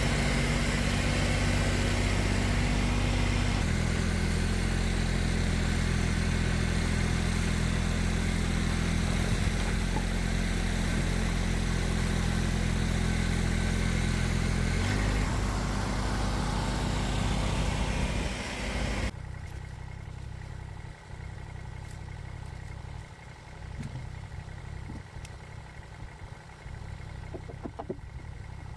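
Tractor engine running steadily, its tone shifting about four seconds in and again about fifteen seconds in. About nineteen seconds in the sound drops abruptly, and a quieter engine sound carries on.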